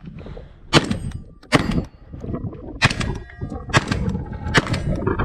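A series of about six shotgun shots from a Benelli M3, spaced a little under a second apart. Some are followed by short metallic ringing from steel targets being hit.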